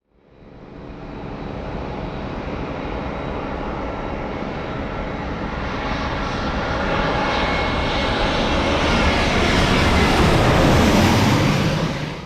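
An airliner's jet engines, a steady rush that grows gradually louder as the plane comes closer, then cuts off abruptly near the end.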